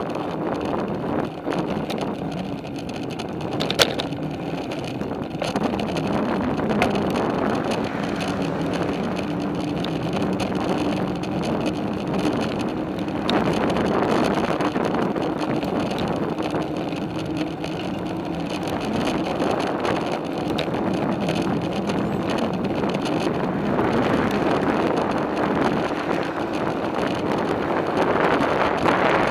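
Riding a bicycle: a steady rush of wind on the microphone mixed with tyre and drivetrain noise, with a sharp click about four seconds in.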